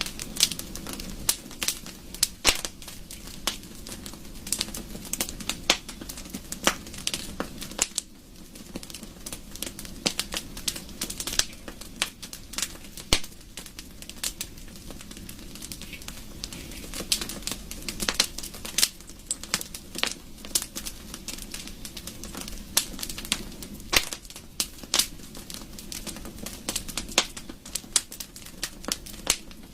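Wood burning in a fireplace, crackling: irregular sharp pops and snaps, several a second, over a steady low rush of the flames.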